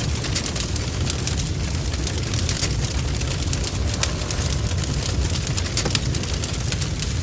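Wood fire crackling in a fireplace: many quick, sharp pops and snaps over a steady low rumble.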